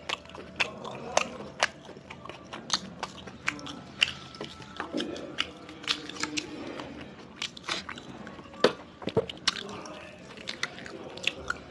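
A person chewing and biting food close to the microphone, with irregular crisp clicks and crunches.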